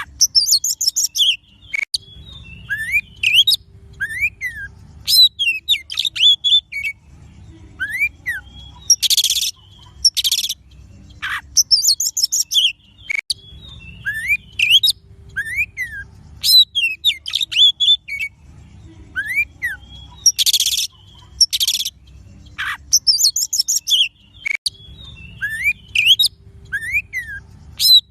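Oriental magpie-robin (kacer) song, played as a lure recording: a rapid run of varied whistled notes that rise and fall, broken by short harsh buzzy phrases. The same sequence of phrases comes round again about every eleven seconds, as in a looped track.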